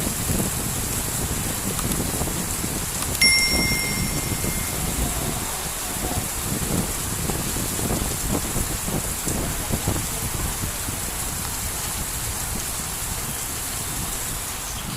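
Heavy rain falling steadily, with uneven low buffeting under it. About three seconds in, a short bright ping rings out and fades over a second or so.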